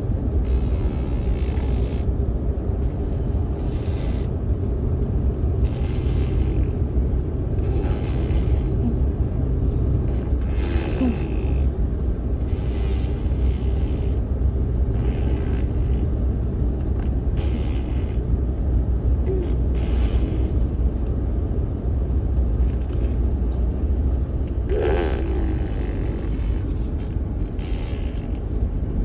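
A baby making short noises over a steady low rumble, with one brief pitched vocal sound about 25 seconds in.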